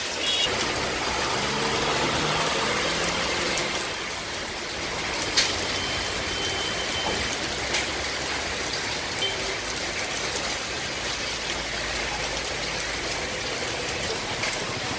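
Steady rain falling, an even hiss, with a sharp tap about five seconds in.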